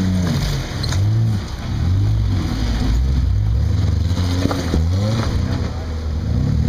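Off-road 4x4 engine revving up and down in short, repeated blips as the vehicle crawls over rock ledges. The pitch rises and falls about once a second.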